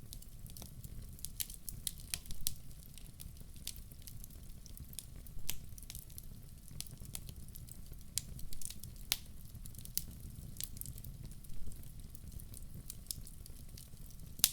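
Outdoor wood fire crackling, with irregular sharp pops and snaps over a low steady rumble of the flames.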